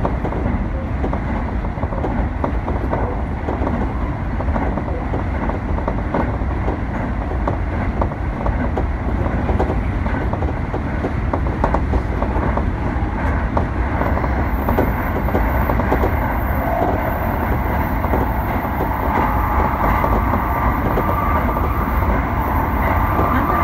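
Tsukuba Express electric train running at speed, heard from just behind the driver's cab: a steady rumble of wheels on rail with rhythmic clicking. A higher ringing tone comes in over the last few seconds.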